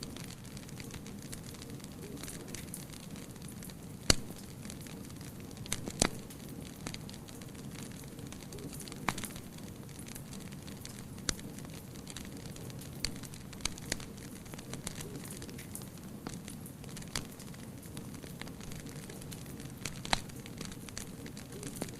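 Wood fire burning with a steady low rumble and scattered sharp crackles and pops, the loudest about four seconds in.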